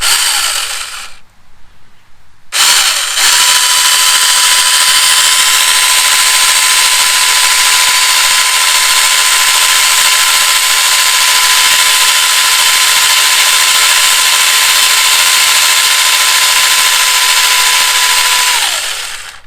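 Tomyvic 6-inch cordless mini chainsaw running without load, its electric motor and chain giving a steady high whine. It briefly blips on at the start, then spins up about two and a half seconds in, holds one even pitch, and winds down near the end. It is being run free until the freshly poured oil starts flinging off the bar and chain.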